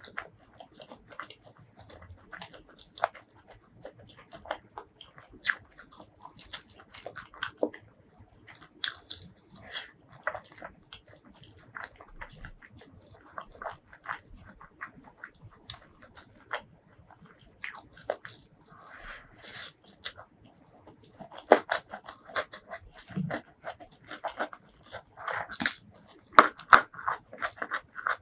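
Close-miked mouth sounds of a person eating curried boiled egg and rice: wet chewing and smacking with many small sharp clicks. Louder, crisper bites come in the last several seconds, as stir-fried water spinach stems go into the mouth.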